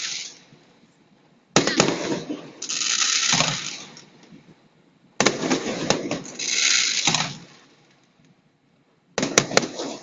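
Aerial fireworks bursting in three volleys about four seconds apart. Each volley is a sharp bang followed about a second later by a longer high crackling hiss.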